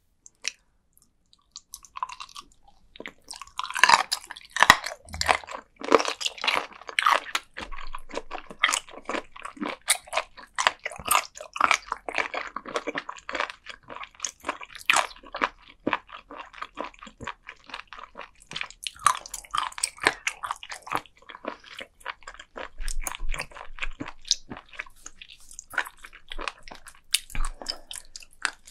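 Close-miked biting and chewing of firm raw sea cucumber: a dense, irregular run of crunches and crackles that starts about three seconds in.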